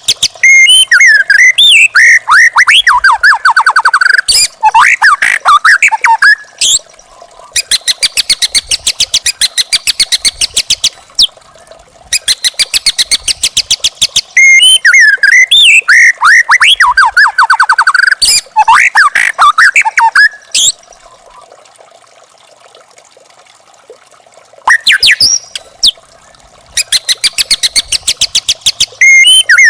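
White-rumped shama (murai batu) singing: loud whistled phrases with sliding notes, alternating with long runs of rapid, evenly spaced sharp chips. There is a pause of a few seconds past the middle before the song resumes.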